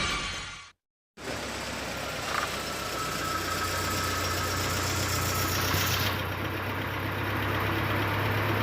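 Evotech 2.7 four-cylinder petrol engine idling steadily with a knock and running rough on one cylinder. The fault is traced to a pushrod that has jumped out of its seat at the rocker. It starts about a second in, after intro music fades out and a short silence.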